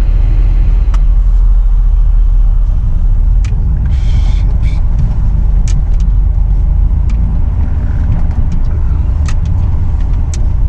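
Truck driving a snowy off-road trail: a steady, heavy low rumble of engine and drivetrain, with scattered sharp clicks and rattles.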